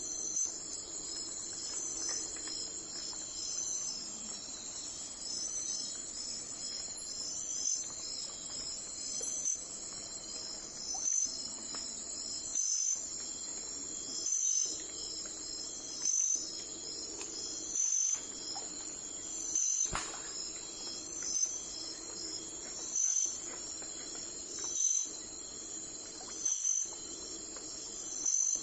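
Crickets and other insects trilling in a steady high-pitched chorus. From about halfway through, a louder chirp repeats roughly every second and a half, and there is a single faint click near the end.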